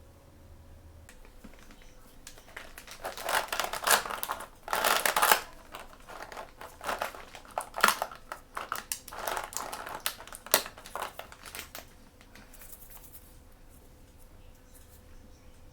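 Toy surprise packaging crinkling as hands open it: a run of irregular crinkles and sharp crackles from about two seconds in until about twelve seconds in, loudest around four to five seconds.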